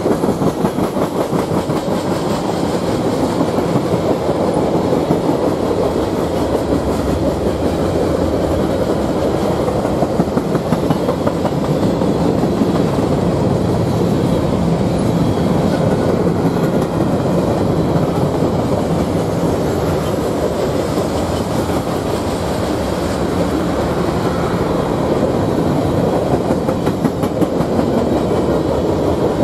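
Freight cars of a mixed freight train (tank cars, boxcars and hoppers) rolling past: a steady, loud rumble of steel wheels on rail with fast, even clacking over the joints.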